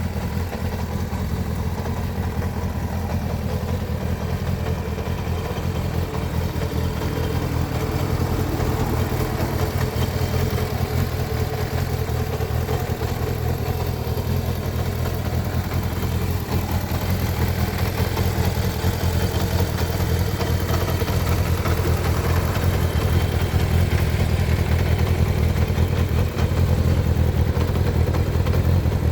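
Kawasaki ZR550 Zephyr's air-cooled inline-four engine running steadily, growing gradually louder over the second half.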